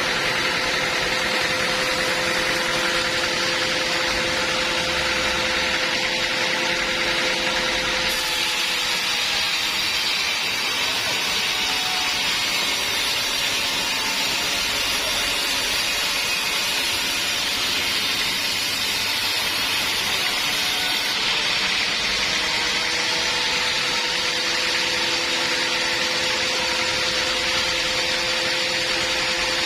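Band sawmill running steadily with a humming tone. From about eight seconds in to about twenty-one seconds the sound turns into a broader, hissier noise as the blade cuts through wood, then the steady hum returns.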